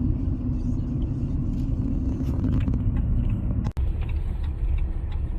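A car in motion, heard as a steady low rumble. The sound drops out for an instant a little under four seconds in.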